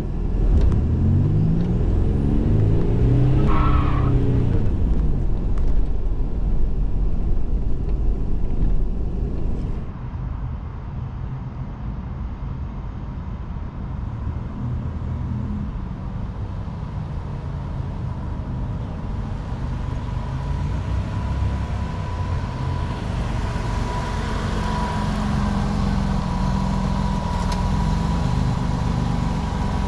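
1987 Buick Grand National's turbocharged 3.8-litre V6 pulling under acceleration, its pitch rising and falling through the gears in the first few seconds. About ten seconds in it drops quieter, then builds again near the end with a steady high whine over the engine.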